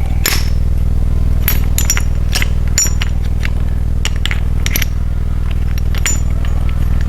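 Irregular light metallic clinks and taps as pushrods and rocker arms are fitted on a Chevrolet 350 small-block V8, over a steady low hum.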